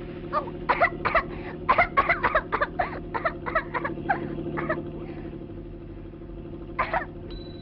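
A quick run of short cough-like vocal bursts, then one more a couple of seconds later, over a steady low hum.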